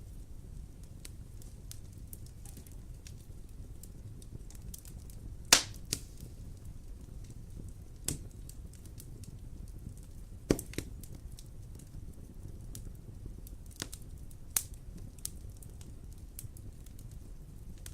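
Wood fire crackling in a fireplace: a steady low rumble with scattered sharp pops, about a dozen in all, the loudest about a third of the way in and another strong one just past halfway.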